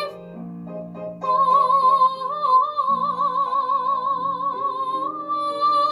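A woman sings one long, wordless high note with a wide vibrato over an instrumental accompaniment. The note comes in about a second in and steps up a little near the end.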